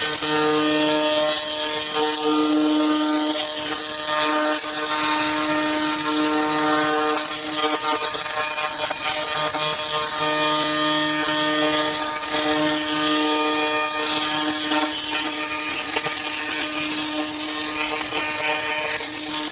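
3000 W handheld laser cleaner burning rust and mill scale off welded steel: a steady buzzing hum with a dense hiss and crackle over it, which cuts off suddenly near the end.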